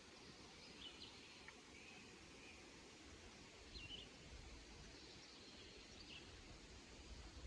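Faint birdsong outdoors: a few short, high chirps, about a second in, again near four seconds and near six seconds, over quiet background noise.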